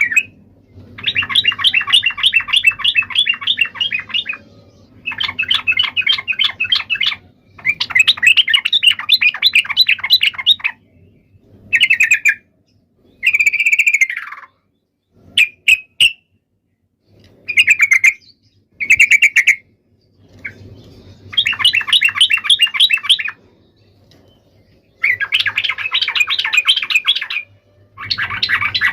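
Yellow-vented bulbul (trucuk) giving its fast rolling chatter in bursts of about two to three seconds, each a rapid run of notes, repeated several times. A few short separate calls come in the middle.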